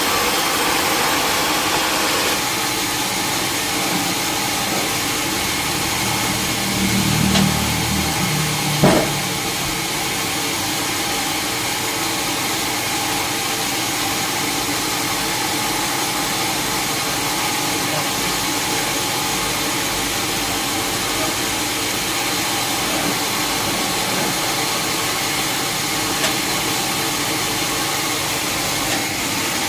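Sawmill machinery running steadily with a constant engine-like hum. A low rumble builds for a few seconds, and a single sharp knock comes about nine seconds in.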